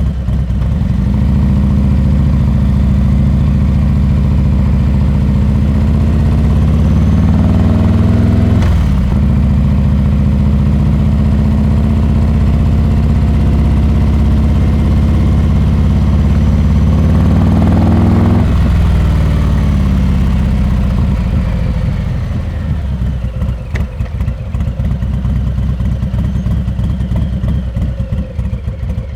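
Harley-Davidson Heritage Classic 114's Milwaukee-Eight V-twin through a Rinehart exhaust under acceleration. The pitch rises steadily, drops sharply at an upshift about a third of the way in, and climbs again to a second sharp drop a little past halfway. After that it falls away and settles into a low, uneven lope near the end.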